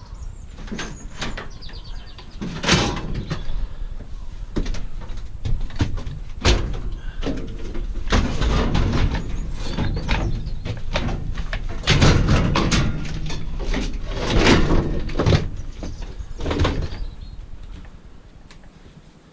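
Aluminium wheelchair frame and parts being dismantled for scrap: irregular metal clanking, knocking and scraping, fading away over the last couple of seconds.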